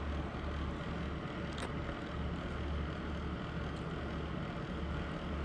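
Steady low background hum with an even hiss, swelling and fading slightly; one faint click about one and a half seconds in.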